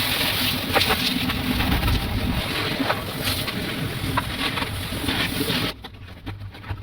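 Car wash equipment hissing loudly and steadily, with a few clicks, then cutting off abruptly near the end.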